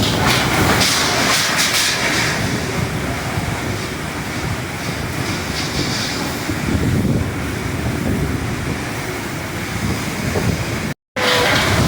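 Strong wind blowing hard, a loud steady rush with gusty low rumbling from wind buffeting the microphone. The sound cuts out for a moment near the end.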